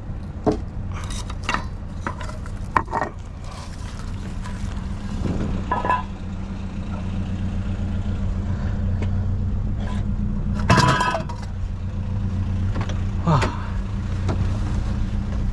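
Small pickup truck's engine running steadily, with a few scattered knocks and clinks.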